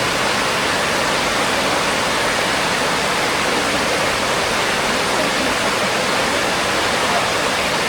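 Steady rush of fast-flowing water from the stream and its cascades, an even hiss that does not change.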